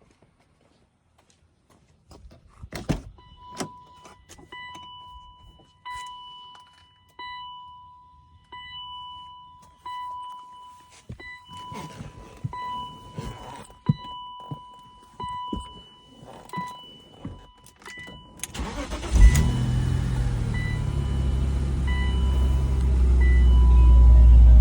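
Clicks and key rattles, then a car's warning chime beeping in a steady repeating pattern for about fifteen seconds. About eighteen seconds in, the 1999 BMW Z3's engine cranks, catches and settles into a cold-start idle, its low rumble growing louder near the end.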